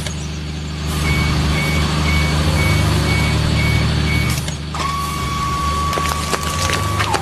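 Truck engine running steadily while a reversing alarm beeps about twice a second; the beeping stops and a steady higher-pitched tone with scattered clicks follows for the last couple of seconds.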